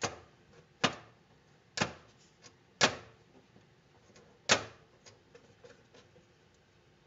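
Five sharp knocks, about a second apart with a longer gap before the last, each with a short ring: a tool striking a sheet-metal body part during fitting.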